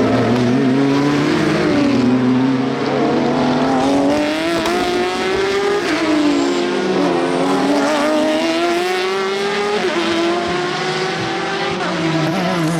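Race car engines at full volume, several at once, their pitch repeatedly dropping and climbing as they change gear and accelerate, with overlapping engines passing.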